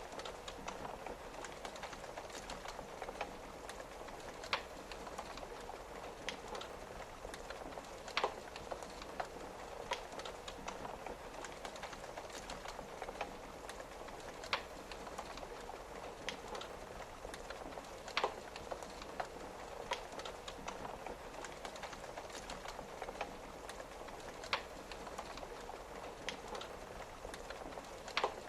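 Wood fire crackling, with a sharp pop every few seconds, over a steady patter of rain on a window.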